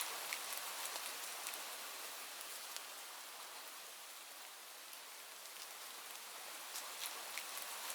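Steady rain falling, an even hiss with scattered sharper drop ticks. It eases slightly midway and builds again near the end.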